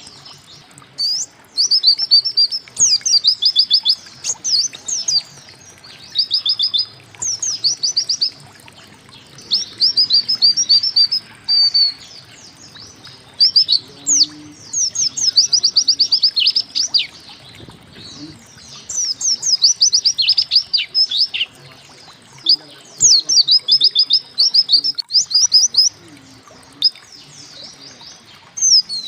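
Pleci (white-eye) singing: repeated phrases of rapid, high, downward-sweeping notes, each phrase lasting about a second, with short pauses between.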